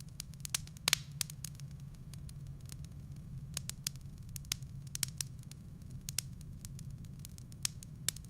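Wood fire crackling in a fireplace: irregular sharp pops and snaps from the burning logs over a steady low rumble, with the loudest snap about a second in.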